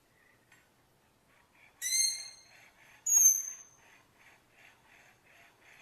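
Bird calls: two loud, sharp, high-pitched calls, one about two seconds in and one about a second later, over a faint chirping that pulses about three times a second.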